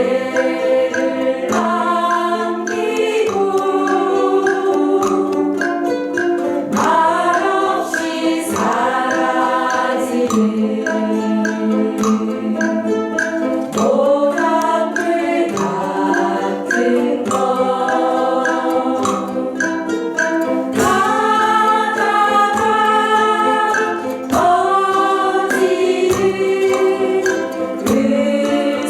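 A group of about thirteen singing together in unison while strumming ukuleles.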